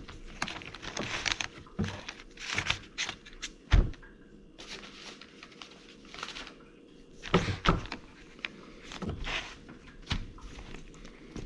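Hands working a greasy CV axle and boot: irregular scraping, rustling and clicks, with one heavy metal thunk about four seconds in and another cluster of knocks a few seconds later.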